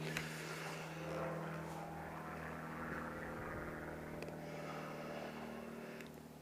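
Old BMW motorcycle engine running at a steady speed, an even hum with its overtones, easing off slightly near the end.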